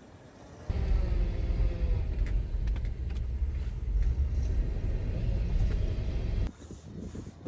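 A vehicle engine running with a heavy, steady low rumble. It starts abruptly about a second in and stops abruptly near the end.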